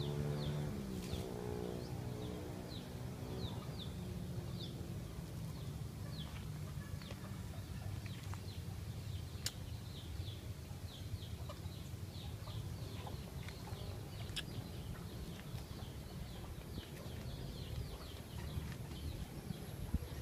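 Small birds chirping, a long run of short high peeps two to three a second, over a steady low rumble.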